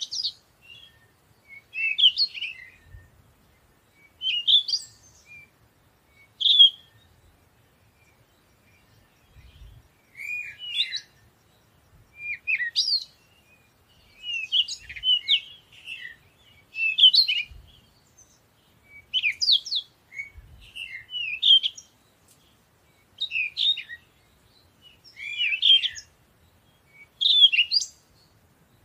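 A songbird singing short, quick chirping phrases, one about every two seconds, with a longer pause partway through.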